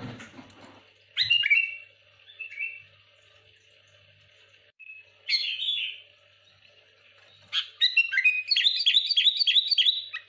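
Sooty-headed bulbul singing in bursts of short, bubbly whistled phrases, then a fast run of repeated notes near the end, about five a second. A soft thump at the very start.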